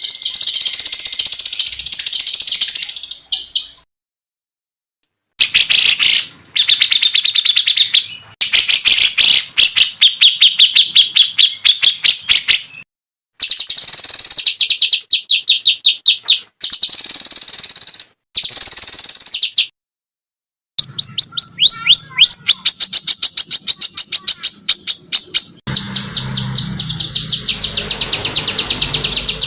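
Songbird calls in fast trilled bursts of rapidly repeated high notes, loud, in four stretches that start and stop abruptly with dead silence between them. A low hum runs under the last few seconds.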